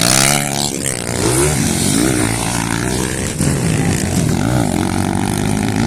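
Motorcycle engines revving, the pitch climbing and dropping again and again.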